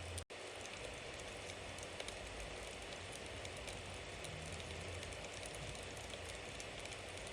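Bonfire burning: a steady hiss with many small crackles and pops scattered through it. The sound cuts out completely for an instant about a quarter-second in.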